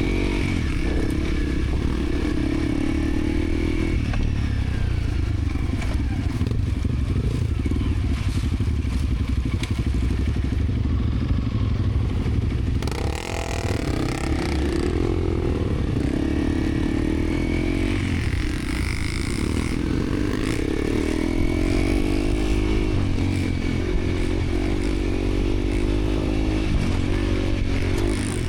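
Dirt bike engine running hard on a rough off-road trail, its revs rising and falling with the throttle and gear changes, easing off briefly about halfway through before climbing again.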